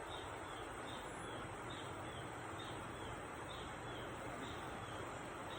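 Steady rushing of river water, with a short high chirp repeating about twice a second over it.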